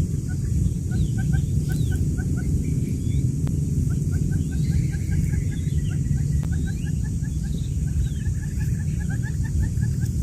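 Newly hatched quail chicks peeping in quick runs of short cheeps, several at once, over a loud steady low hum.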